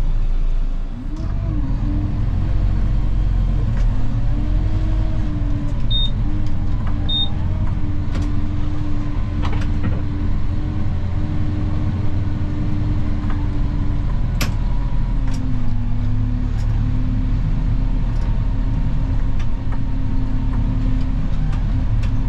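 Snow plow vehicle's engine running steadily, heard from inside the cab, with a whine that rises and falls a few times. Two short high beeps come about six and seven seconds in.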